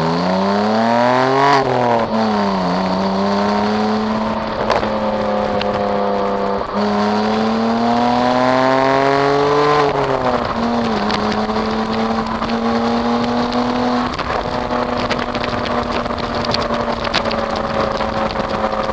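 BMW E90 325i's N52 straight-six, with a BMW Performance exhaust, revving up for about a second and a half, then easing off and running steadily. It climbs again from about seven to ten seconds in, drops back and settles to a steady drone.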